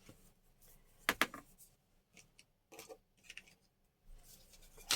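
A few light clicks and knocks of small craft items being handled on a table, with a brief rustle near the end.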